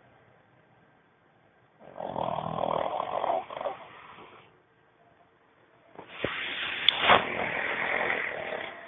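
A pug snoring in its sleep: two long snores, one starting about two seconds in and a second starting about six seconds in, with quiet between. The second snore has a couple of sharp clicks in it.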